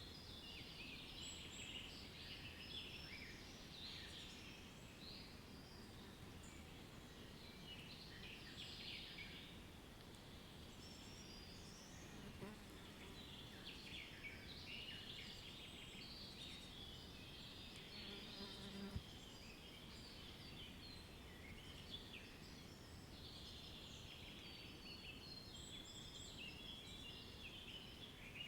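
A faint chorus of many small birds chirping and twittering over each other, with a low steady rumble of background noise underneath. A single short click about two-thirds of the way through.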